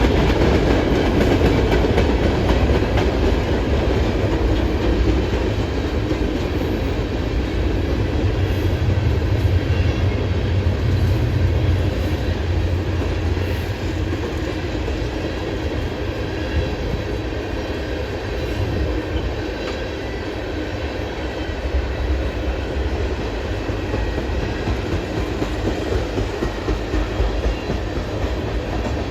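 A slow train passing: a steady low rumble of rail cars rolling by.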